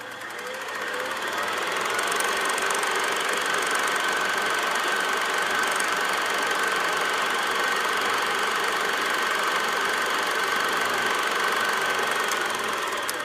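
A running engine: a steady, rapid mechanical chatter with a high whine over it, fading in over the first couple of seconds and fading out near the end.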